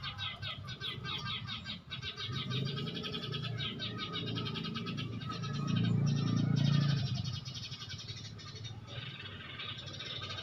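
Small birds calling in rapid, chattering trills, over a low droning sound that swells to its loudest about six seconds in.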